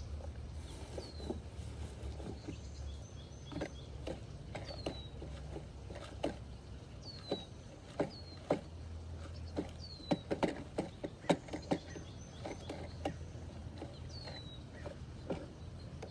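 Scattered light clicks and knocks of a plastic toy garbage truck being worked by hand, coming thick and fast in the middle. A bird gives a short falling chirp about six times over a low steady rumble.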